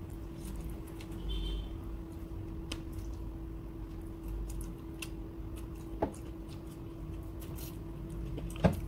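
Close-up eating sounds of chicken adobo being chewed by hand-fed mouthfuls: wet chewing with scattered mouth clicks and smacks, one louder smack near the end.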